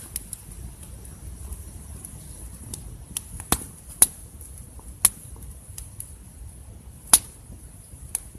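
Wood campfire crackling, with irregular sharp pops, a few of them loud, over a faint steady hiss.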